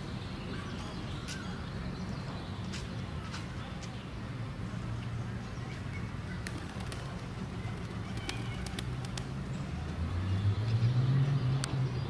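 Outdoor ambience: short high bird chirps scattered throughout, over a steady low hum that swells louder for about a second and a half near the end.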